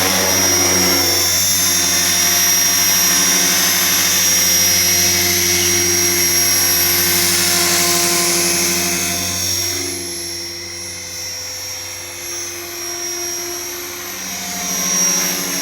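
Align T-Rex 470LP electric RC helicopter, powered by a 6S battery, flying with a steady whine from its motor and rotor head and the whir of its blades. The sound drops about ten seconds in and swells again near the end.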